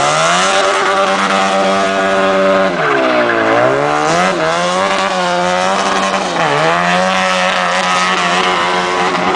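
A vehicle engine revved up and held at high revs, its pitch dropping sharply twice and climbing straight back up.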